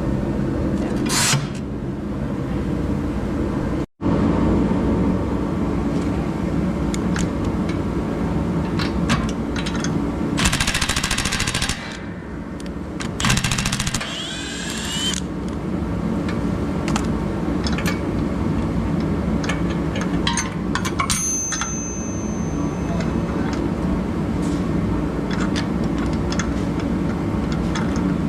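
Steady machine hum with scattered clicks and clanks of tools, broken by two short rattling bursts of a power tool, about ten and thirteen seconds in.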